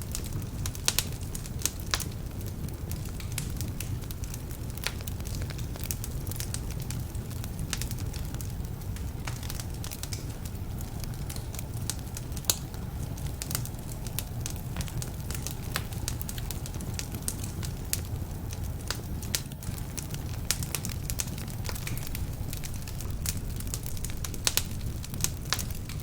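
Wood fire burning in a fireplace: a steady low rumble of flames with frequent sharp, irregular crackles and pops from the logs, some of them damp.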